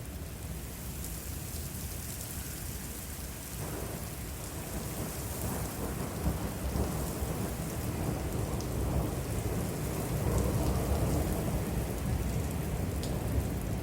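Steady rain falling, with a long roll of thunder that builds from about four seconds in and is loudest near ten seconds.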